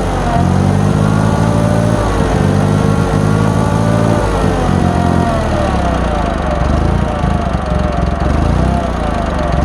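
1966 Ford 3000 tractor's gasoline engine running, its speed wavering up and down and shifting about halfway through. The owner suspects water in the gas.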